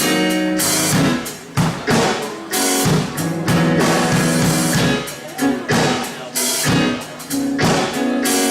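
Live church band music: sustained keyboard or organ chords over a drum kit keeping a steady beat.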